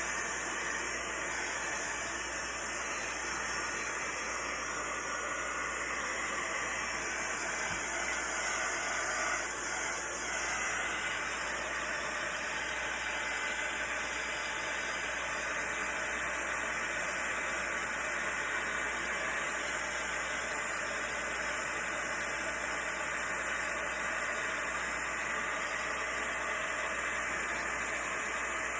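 Heat gun blowing steadily over a fresh acrylic pour: a constant rushing hiss with no break.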